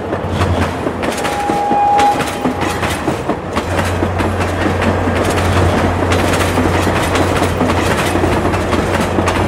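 Diesel passenger train running across a masonry arch bridge: a steady rumble of wheels on rail with a fast clickety-clack of ticks. A brief steady high tone sounds about a second in.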